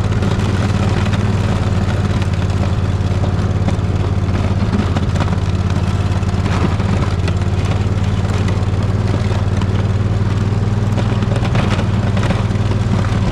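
Poulan riding lawn mower's engine running steadily under load while it plows snow in a high gear.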